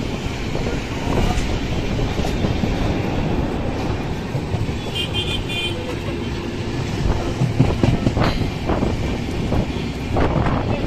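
Express passenger train running at speed: a steady rumble of the coach and wheels on the track, with a few sharp knocks in the last few seconds.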